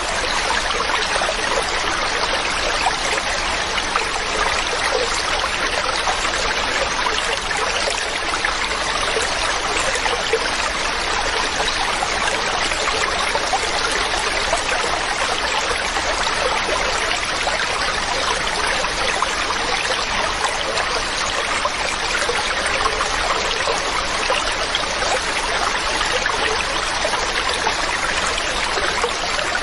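Mountain stream running steadily over rocks: a constant, even rush of water with no change.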